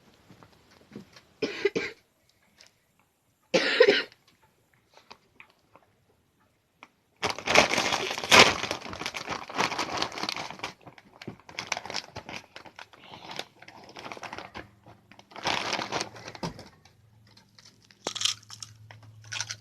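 Two short coughs, then a crinkly snack bag of Funyuns rustling for several seconds as it is opened and handled, with more scattered rustles after it.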